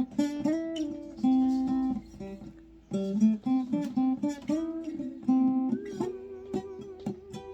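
Acoustic guitar playing an instrumental passage of picked melody notes, with a wavering held note near the end.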